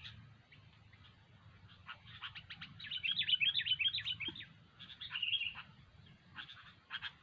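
Sooty-headed bulbuls calling: quick runs of bright chirps, densest from about two seconds in, with a shorter burst around five seconds and more near the end.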